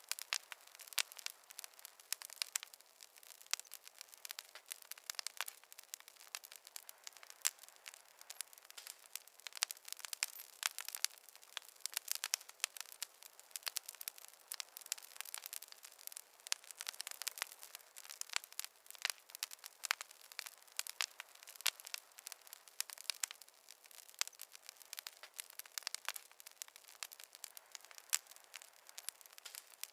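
Wood fire in a fireplace crackling: dense, irregular sharp pops and snaps over a soft hiss, with no deep rumble.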